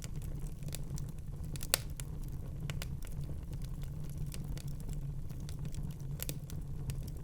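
Fire in a fireplace crackling: irregular sharp pops and snaps over a low steady rumble, with the loudest pop a little under two seconds in.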